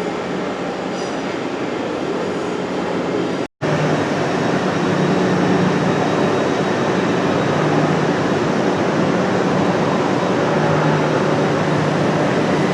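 Train running, a steady rumbling noise with a low hum. It cuts out for a moment about three and a half seconds in, then comes back a little louder.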